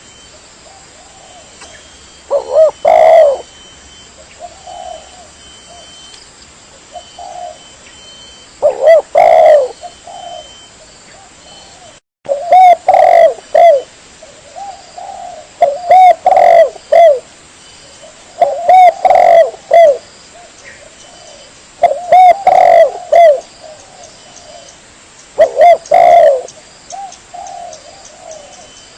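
Spotted dove (tekukur) cooing, a lure call: short phrases of a few low coo notes, repeated every few seconds.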